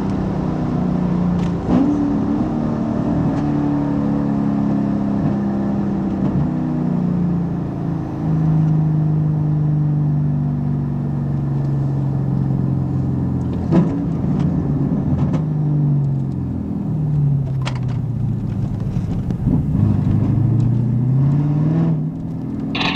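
Ute's engine heard from inside the cab while driving, its pitch stepping and gliding up and down with throttle and gear changes, over tyre and road noise. A few sharp knocks break in, the loudest about halfway through.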